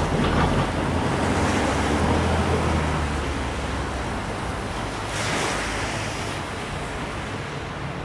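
Norfolk Southern intermodal freight train rolling past: a steady rushing rumble of wheels on rail with a low hum beneath, swelling briefly about five seconds in.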